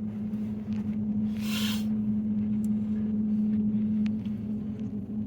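Steady low-pitched hum over a low rumble, heard from inside a car, with a short hiss about a second and a half in.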